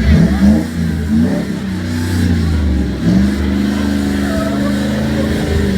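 Jeep J-series pickup's engine revving up and down under load as it crawls over rock, its pitch rising and falling several times.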